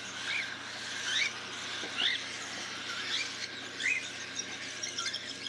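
Baby cockatiels giving short, high-pitched, upward-sweeping chirps about once a second: the food-begging calls of chicks being hand-fed.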